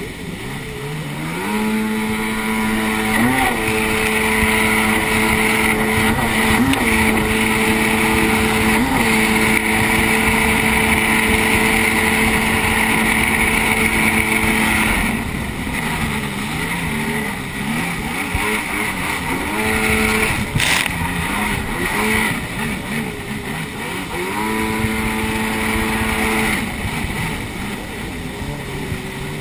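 Jet ski engine running hard at a steady pitch over the rush of water, with a few brief revs. It eases off about halfway, then picks up again twice before dropping back near the end.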